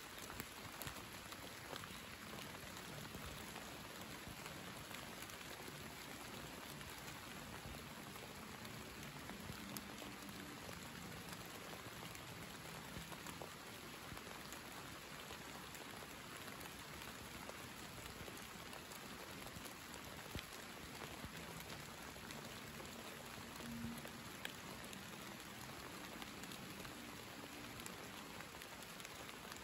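Steady summer rain: an even hiss of falling rain with many scattered individual drop ticks.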